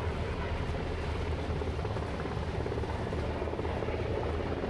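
A steady, throbbing engine drone with a strong low hum and a fast flutter.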